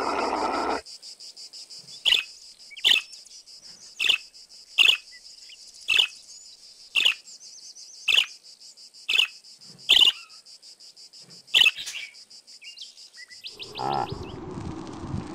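Budgerigar chirping: about ten short, sharp chirps roughly a second apart, over a steady high-pitched hiss. A llama's call dies away within the first second, and a reindeer's low grunting call begins near the end.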